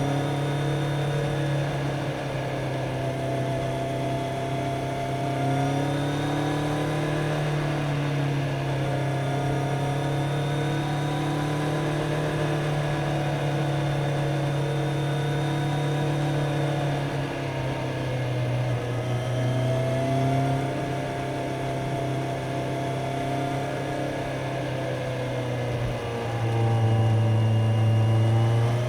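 Kawasaki Z900's inline-four engine running while the motorcycle is ridden, its pitch rising and falling gently with the throttle. There is a louder pull near the end.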